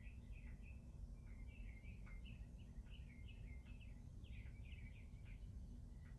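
Birds chirping faintly, many short quick calls in a busy run, over a steady low rumble.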